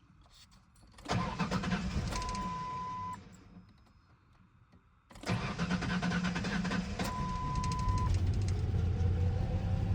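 A 2001 Ford Ranger's engine being started: the starter cranks for about two seconds and stops, then cranks again about five seconds in, and the engine catches and keeps running. A steady beep about a second long sounds during each attempt.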